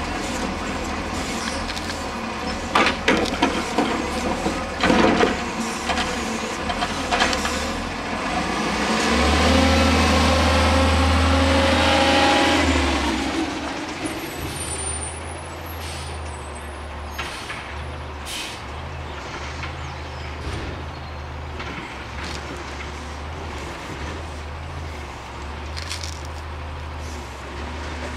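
OS .46AX two-stroke nitro glow engine of an RC P-51D Mustang running on the ground, opened up to high speed for a few seconds near the middle, then dropping away to a much quieter sound, with scattered clicks after that.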